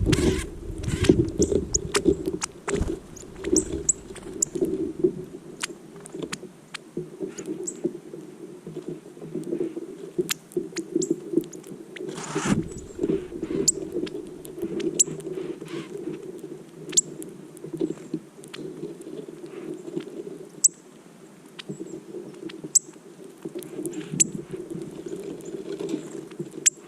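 Songbirds at a winter feeder giving short, sharp, high chip calls scattered irregularly over a steady low rushing noise, with one brief louder rush about halfway through.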